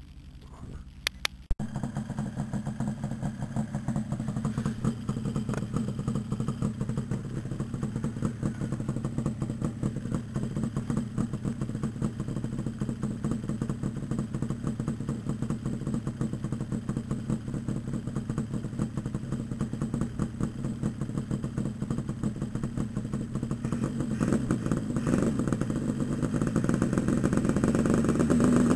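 Yamaha RD350LC two-stroke parallel-twin engine catching about a second and a half in, after two sharp clicks, then running steadily through Micron expansion chambers with freshly repacked silencers. It grows louder near the end.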